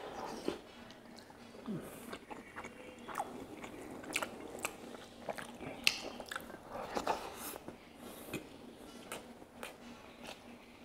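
A person chewing rice and pork curry with wet mouth sounds and lip smacks at irregular intervals. The sharpest smack comes about six seconds in.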